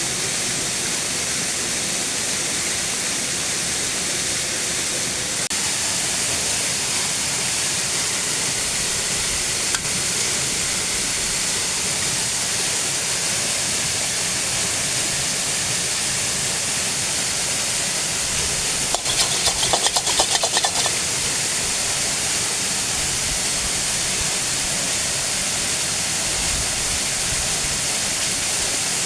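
Steady rushing of a waterfall. About two-thirds of the way through, a short run of rapid clicking or rattling lasts a couple of seconds.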